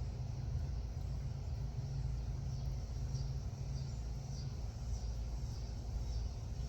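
Steady low rumble, with faint short high chirps of small birds coming in from about three seconds in.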